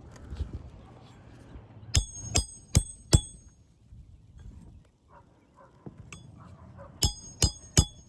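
A hammer driving a roofing nail through asphalt shingles, with sharp ringing metal strikes. There are four blows about two seconds in and three more about seven seconds in. The nail goes in crooked.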